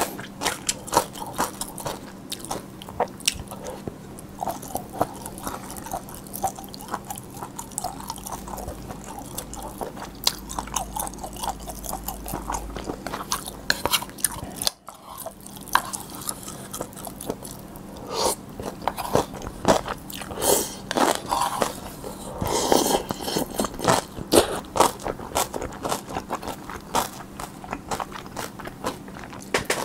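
Close-miked chewing and biting of spicy cold noodles with sea snails and young radish kimchi, with many short sharp clicks and mouth noises, busier in the second half.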